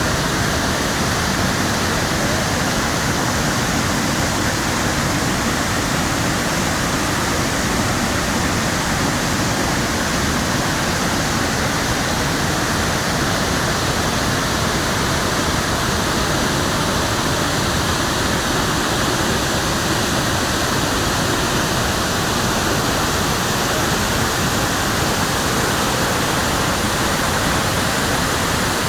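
A large waterfall's falling water makes a loud, steady rushing noise with no break.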